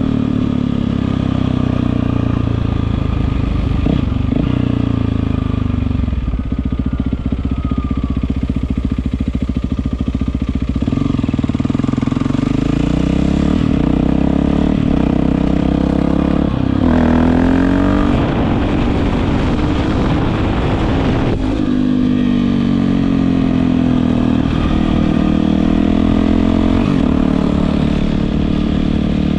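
Yamaha WR450F's single-cylinder four-stroke engine running through an Akrapovič exhaust. The engine note rises and falls with the throttle, with the loudest, highest revving about two-thirds of the way through.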